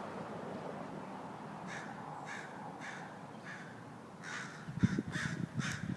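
Crows cawing: a run of short, harsh caws, sparse at first, then louder and closer together in the second half. A couple of low thumps come near the end.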